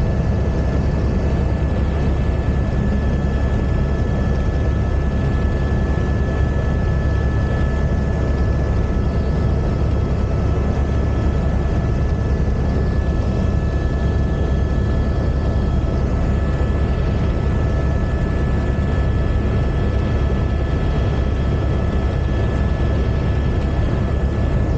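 Helicopter in flight: a steady, loud engine and rotor noise, heaviest in the low end, with a constant high whine on top that does not change.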